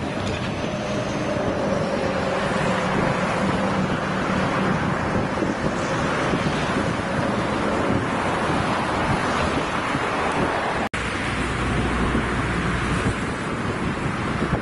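Freight train of tank cars rolling past on the rails: a steady rumble and rush of wheels on track, with wind on the microphone. About eleven seconds in the sound cuts out for an instant and then carries on as a lower, steadier rumble.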